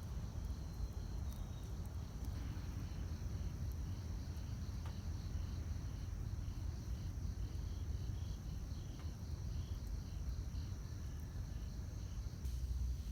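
Wood campfire burning with a low steady rumble and a few sharp crackling pops, while insects chirp in an even, repeating rhythm in the background.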